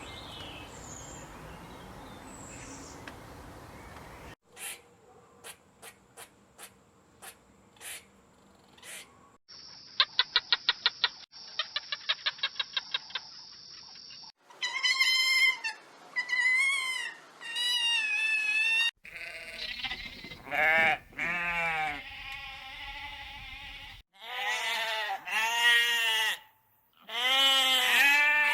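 A string of short animal sounds, one after another: faint noise and a few clicks, then a fast rattling pulse, then repeated bleating calls that grow louder toward the end.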